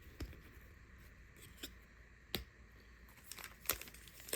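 Faint handling of trading cards: soft rustles and a few sharp clicks as the cards are flipped through by hand, the clicks coming more often near the end.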